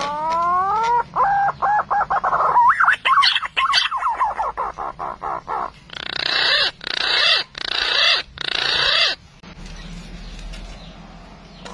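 Green pigeon (punai) calling: a rising whistled note, a quick run of short notes, higher wavering whistles, then four long harsh grating calls. The same sequence starts again at the end, as a repeated lure call.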